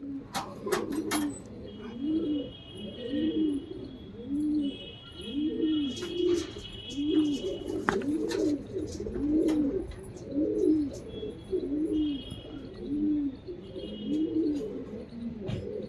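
Domestic Madrasi pigeons cooing: a low, arched coo repeats steadily about once a second. Fainter high chirping trills come and go alongside it.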